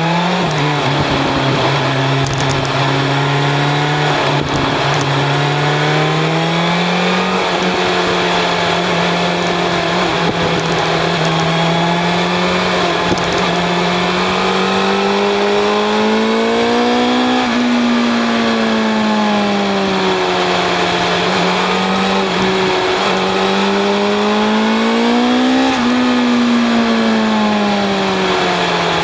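BMW S1000 RR inline-four engine with an Akrapovic exhaust at speed, winding up hard at the start, then holding high revs with slow swells and two sharp drops in pitch, about 17 and 26 seconds in, over steady wind rush.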